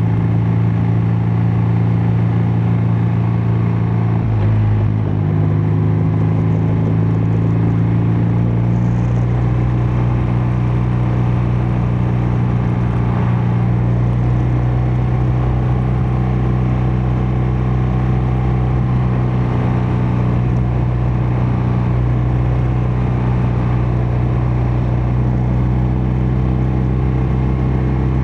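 BMW R12 NineT's boxer-twin engine and exhaust running at a steady cruise while riding. The engine note shifts briefly about four to five seconds in, then holds steady.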